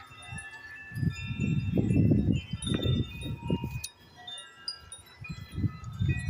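Several metal wind chimes ringing in the wind, many tones sounding and overlapping. Gusts of wind rumble on the microphone, strongest from about one to four seconds in.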